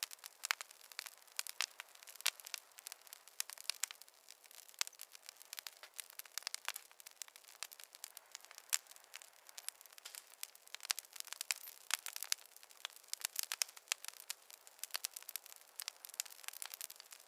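Wood fire in a fireplace crackling: a dense, irregular run of sharp pops and snaps over a faint hiss, with no low rumble.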